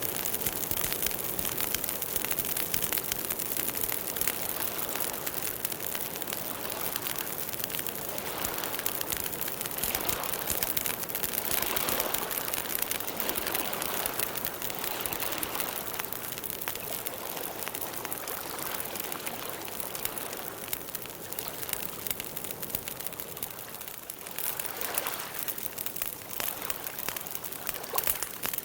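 Campfire burning, the wood crackling in a dense, steady stream of small snaps over a continuous hiss.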